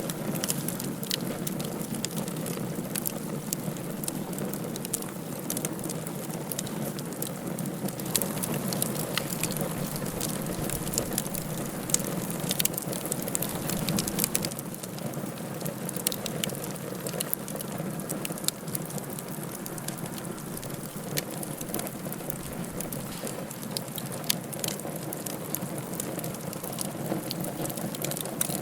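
Wood fire burning in a fireplace, crackling with many irregular sharp pops over a steady low hiss.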